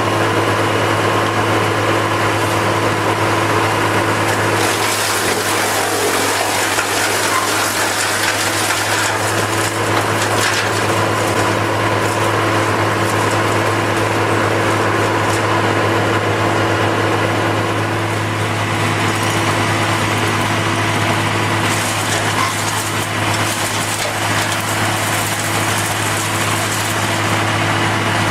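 An engine of heavy machinery runs steadily with a constant hum and a hiss over it, the hiss changing in strength a few times.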